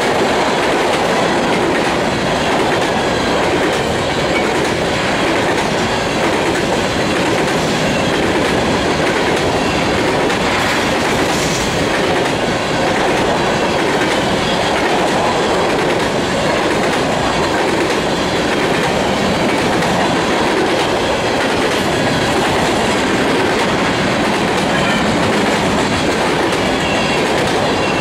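Covered hopper cars of a freight train rolling past close by: steady, loud clatter of steel wheels on the rails.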